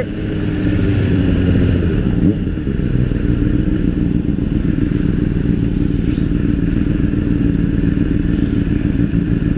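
Motorcycle engine running steadily while riding, with a brief rise in the engine note about two seconds in.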